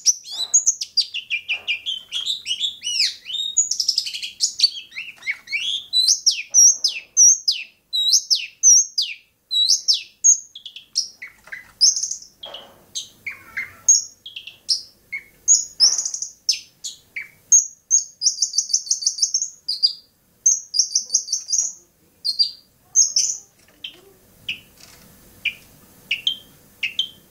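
Long-tailed shrike (cendet) singing a fast, varied song of chirps, whistles and quick trills, which thins near the end to single short chirps about once a second.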